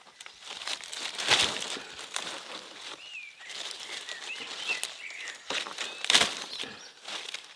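Irregular rustling and scraping noises, loudest about a second and a half in and again about six seconds in, with a small bird chirping a few times in between.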